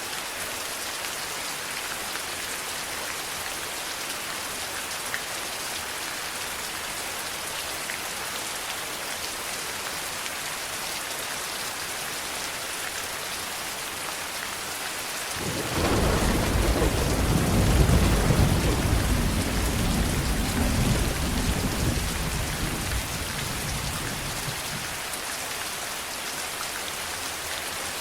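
Steady heavy rain hissing and pattering, with a long roll of thunder that breaks in suddenly about halfway through, peaks a few seconds later and rumbles away over roughly ten seconds.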